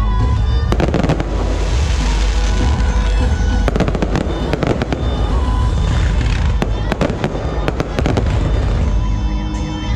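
Aerial fireworks display: shells bursting overhead with sharp bangs and crackling, in clusters about a second in, around four seconds and again around seven to eight seconds.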